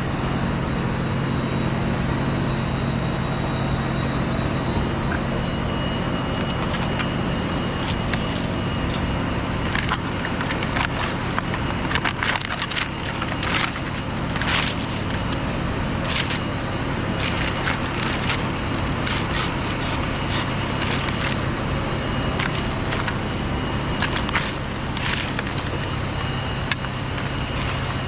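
Steady motor drone, with a long run of sharp cracks and splintering snaps of palm fronds being cut and broken off over the middle part.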